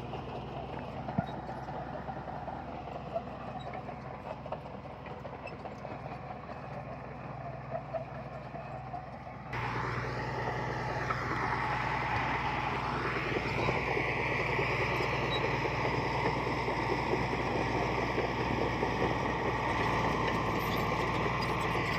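Diesel engine of heavy earthmoving machinery running steadily. About nine and a half seconds in the sound cuts abruptly to a louder section with a higher whine that wavers in pitch for a few seconds, then holds steady.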